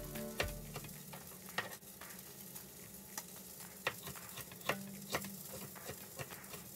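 Fish frying in a dry pan without oil, sizzling with scattered, irregular pops and crackles.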